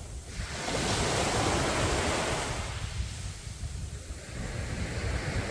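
Ocean surf. A wave breaks and washes in about half a second in, its rush easing by around four seconds, and the next swell builds near the end.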